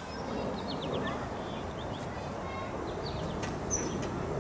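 Small birds chirping in short quick runs of high notes over a steady low outdoor background noise.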